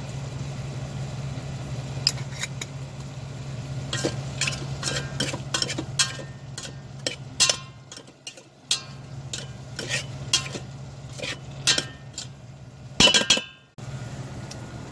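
A utensil stirring vegetables as they sauté in the metal inner pot of an Instant Pot, with repeated clinks and scrapes against the pot. A steady low hum runs underneath.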